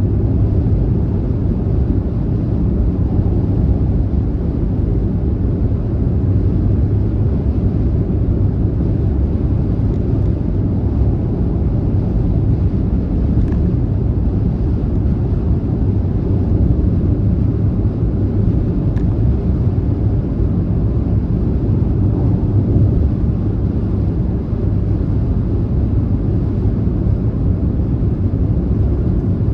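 Car driving at speed on a highway: a steady, unbroken low rumble of road and engine noise.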